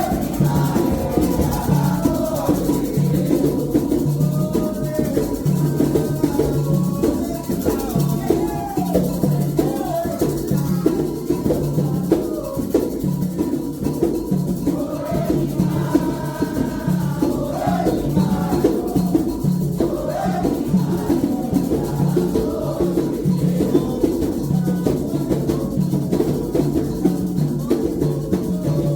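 Candomblé toque: atabaque hand drums keep a steady driving rhythm with a shaken rattle over it, while voices sing a chant for the orixás.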